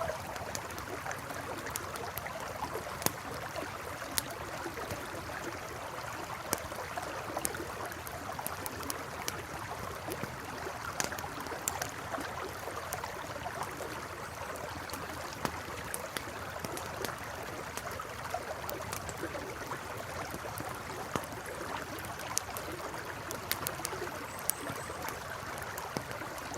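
Campfire crackling, with irregular sharp pops and snaps, over the steady rushing flow of a river.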